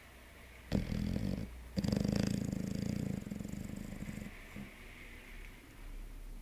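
Chocolate Labrador puppy snoring: a short snore about a second in, then a longer, louder one straight after, fading to quieter breathing.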